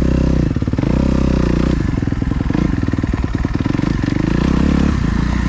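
Dirt bike engine running under a rider, the throttle opening and closing so the engine note rises and falls several times.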